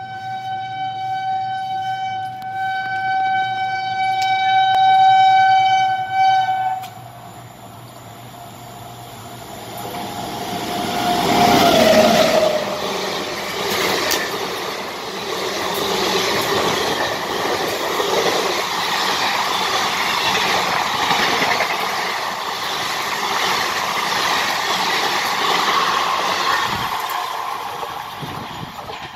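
An Indian Railways express train running through the station at speed without stopping. Its locomotive horn sounds one long steady blast, and a shorter note drops in pitch as the locomotive passes. The coaches then rush past with rail clatter, fading near the end.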